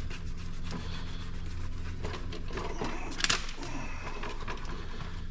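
Light handling noises over a steady low hum, with one sharp click about three seconds in.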